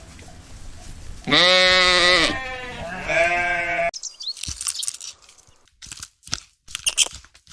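A farm animal bleating: two long bleats, the first loud, the second following straight after. About four seconds in it cuts off abruptly and gives way to scattered crunching clicks and faint chirps.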